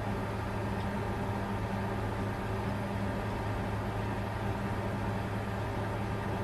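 Bitcoin mining computer running flat out: a steady whoosh of cooling fans over a low, even electrical hum.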